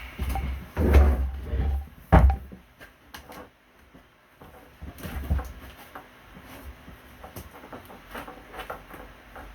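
A few dull knocks and thuds with some scraping and rustling between them, the loudest about one and two seconds in, then quieter handling noises.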